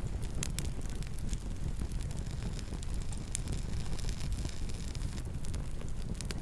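Campfire burning: a steady low rumble with scattered sharp crackles from the burning wood, a few each second at irregular times.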